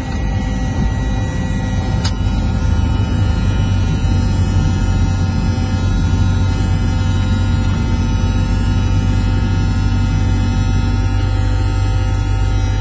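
Cessna 172S's four-cylinder Lycoming engine and propeller running steadily, heard inside the cockpit as a droning hum. A single brief click about two seconds in.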